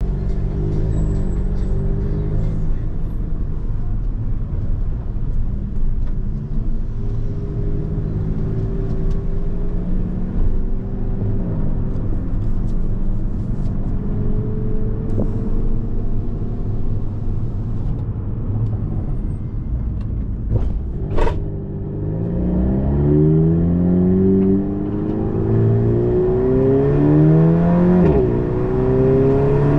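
Inside the cabin of a tuned VW Golf 7.5 GTI Performance, its EA888 2.0-litre turbocharged four-cylinder holds fairly steady over low road and tyre rumble. After a sharp click about two-thirds through, it pulls hard with rising revs, falling back at each DSG upshift several times in a row.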